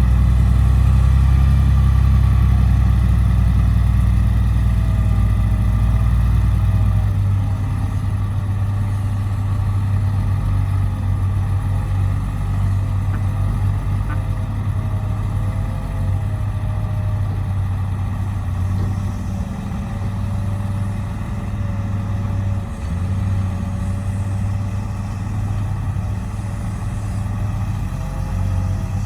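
Heavy dump truck engine running steadily, louder for about the first seven seconds and then settling lower, with a faint wavering whine above it.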